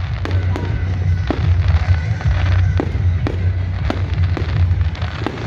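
Fireworks display: aerial shells bursting in a quick, irregular series of sharp bangs, about ten in all, over a continuous low rumble.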